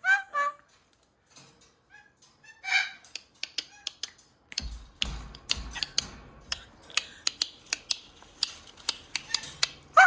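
Pet parrots giving short squeaky calls in the first half-second and again near three seconds in. From about four and a half seconds on comes a busy run of sharp clicks and taps over a low rumble.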